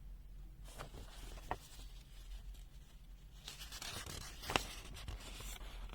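Faint paper rustling as the pages of a small printed user manual are handled and turned, with a few light taps, the loudest about four and a half seconds in.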